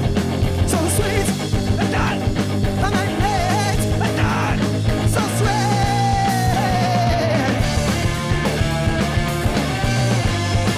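A live rock band playing loud, dense punk-style rock music.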